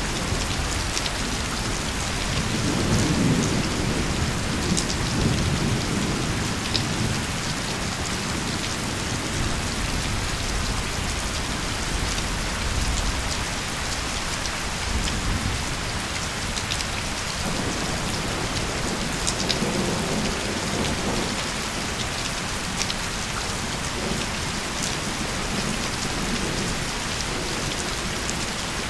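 Steady heavy rain with scattered drop ticks, and low thunder rolling twice, once a few seconds in and again just past the middle.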